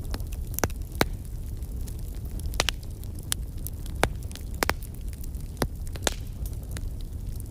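Heavy rain on a metal surface: scattered sharp drops ticking at irregular intervals over a steady low rumble.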